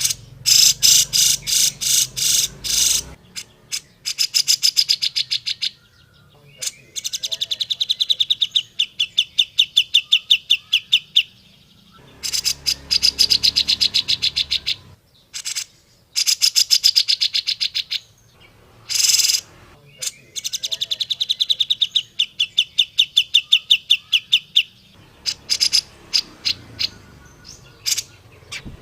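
Grey-cheeked bulbul (cucak jenggot) singing: loud phrases of fast, evenly repeated harsh notes, each phrase two to four seconds long, with short pauses between. One short, louder burst falls about two-thirds of the way through.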